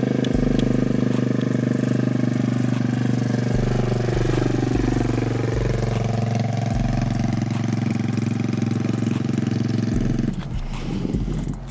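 ATV (four-wheeler) engine running steadily, its note falling and rising again about midway, then dropping away near the end.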